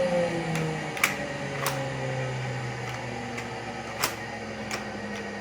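A power tool's motor winding down after being switched off, its hum falling in pitch over the first couple of seconds, with a low steady hum after that. A few sharp clicks and knocks come through, the loudest about four seconds in.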